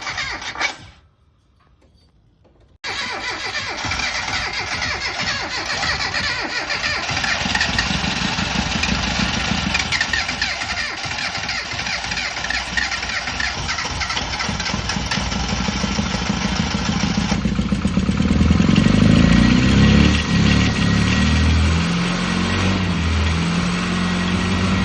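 Classic Mini Clubman's A-series four-cylinder engine running. The sound drops out for about two seconds near the start, then comes back abruptly. For its last several seconds it turns deeper and louder.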